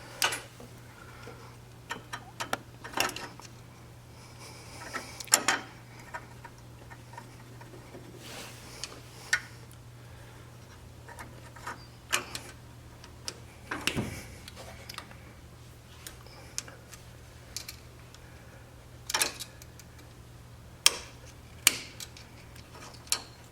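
Screwdriver prying and scraping at a small parking brake seal in a Hydro Gear mower transmission: scattered sharp metal clicks and scrapes, several of them louder, over a steady low hum. The seal is stuck and gets damaged in the prying.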